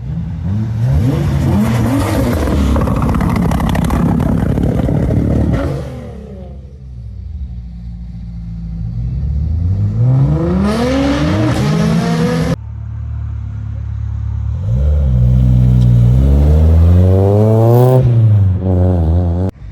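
Loud modified car engines revving hard as cars accelerate away, in three bursts: a rough, noisy one for the first few seconds, then two revs that climb in pitch and cut off sharply.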